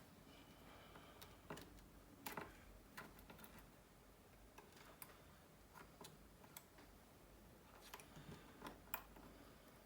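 Faint, irregular small clicks and taps from small tools and parts being handled inside a smartphone during disassembly, about a dozen in all, with the sharpest a little over two seconds in.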